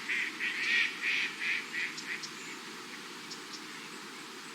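A duck calling: a quick run of short quacking calls, about three a second, that fades out about two seconds in.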